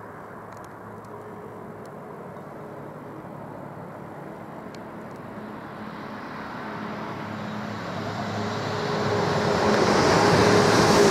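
Express passenger train approaching at speed, growing from a distant hum into a loud rush of wheels and air as it nears, loudest over the last few seconds.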